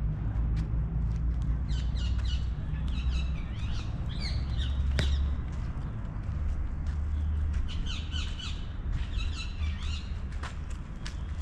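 Birds calling outdoors: quick chirps that slide up and down in pitch, in three clusters, over a steady low rumble, with a few sharp clicks.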